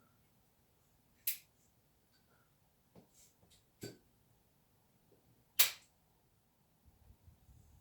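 Four sharp clicks or knocks at irregular intervals against a quiet background, the loudest a little past the middle.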